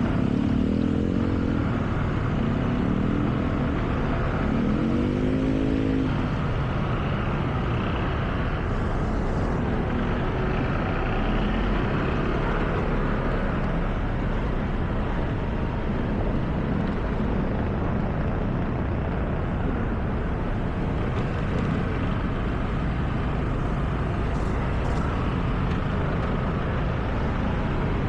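Car driving on a wet road: steady tyre and road noise, with an engine note rising and falling a few times in the first six seconds.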